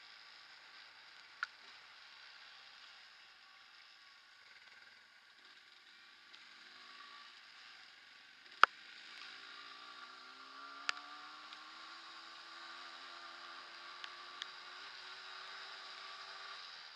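Faint Yamaha DT230 Lanza two-stroke trail bike engine under way on a muddy track, with a steady hiss; the engine's hum rises and falls in pitch from about halfway through. Several sharp knocks break in, the loudest just past the middle.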